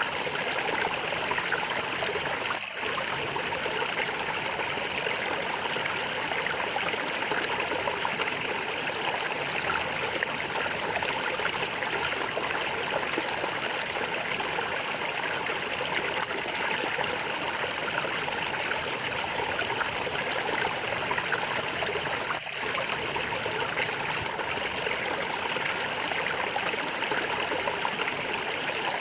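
A stream of water flowing and gurgling in a steady, continuous rush, with two momentary dips in level.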